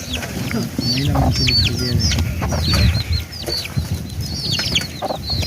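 Birds cheeping: many short, high chirps that each fall in pitch, several a second, over a low rumble.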